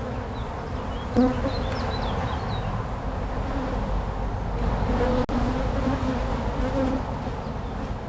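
Honey bees buzzing around an opened hive: a dense, steady hum in which the pitches of single bees waver and drift as they fly past close by.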